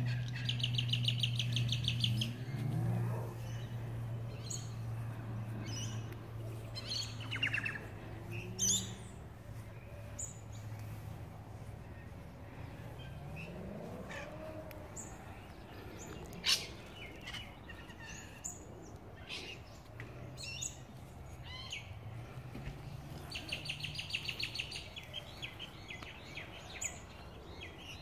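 Birds chirping and calling, with a fast high trill at the start and again about 24 seconds in. A low steady hum sits under the first ten seconds or so, and there is a single sharp click about 16 seconds in.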